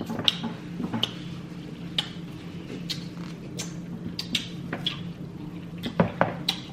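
Close-up eating sounds from a seafood boil of king crab legs and shrimp: scattered sharp clicks and wet mouth noises of chewing and handling shellfish, loudest about six seconds in, over a steady low hum.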